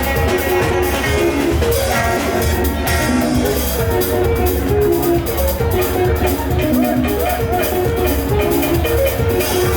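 Live Kamba band music: a lead instrument plays quick, bright melodic runs over a steady bass and drum beat.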